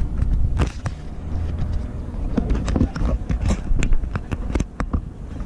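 Irregular knocks and clicks over a steady low rumble.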